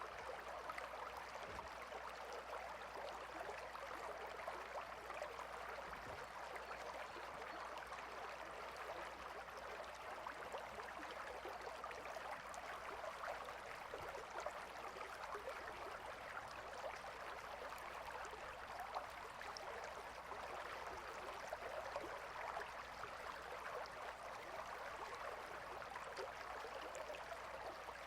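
A gentle river flowing steadily with a soft, even babble of water.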